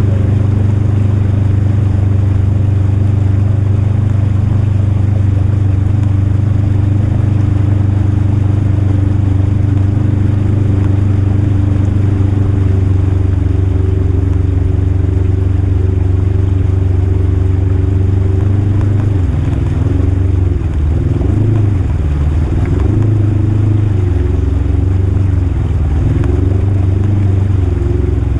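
Polaris RZR 1000 High Lifter side-by-side's engine running at a steady speed. From about two-thirds of the way in, its pitch rises and falls repeatedly with the throttle.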